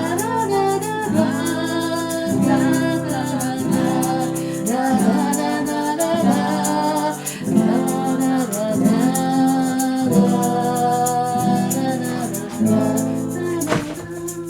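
Acoustic guitar strummed with several voices singing, the close of a live amateur performance of a Russian rock song; the music stops just before the end.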